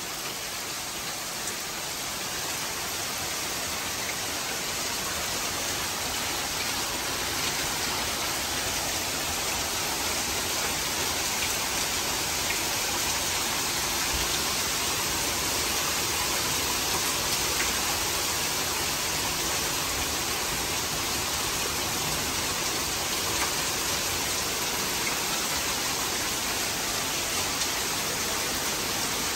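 Heavy downpour of a severe thunderstorm: a steady hiss of pouring rain splashing on a paved path, lawn and shrubs, growing a little louder over the first few seconds.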